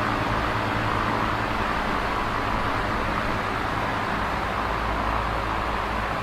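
Large box fan running steadily: an even rushing whoosh of moving air with a low motor hum beneath it.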